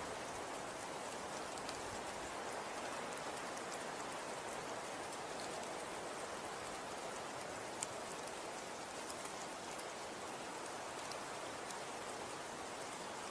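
Snow falling: a steady soft hiss with faint scattered ticks of flakes landing, and one sharper tick about eight seconds in.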